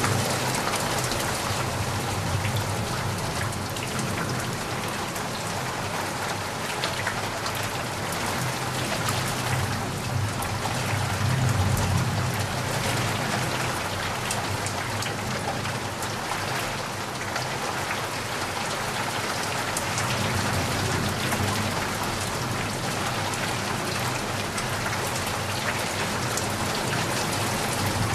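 Heavy rain falling steadily, a dense hiss of drops striking surfaces, with a low rumble swelling and fading underneath.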